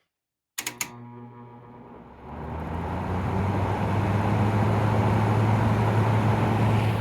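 1996 Whirlpool 6,000 BTU window air conditioner switched on to low fan, with the compressor off: a couple of switch clicks, then the fan motor hums and the airflow builds over a couple of seconds to a steady blow.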